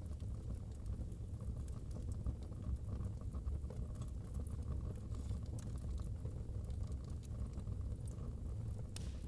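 Wood fire burning in a fireplace: irregular small crackles and pops over a steady low rumble, with one sharper pop near the end.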